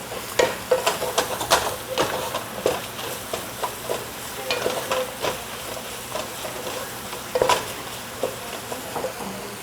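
A utensil stirring onions and ginger-garlic paste frying in oil in a pan: irregular scraping and knocking strokes against the pan over a steady sizzle, with one louder scrape about three quarters of the way through. The paste is being kept moving so it does not stick to the bottom.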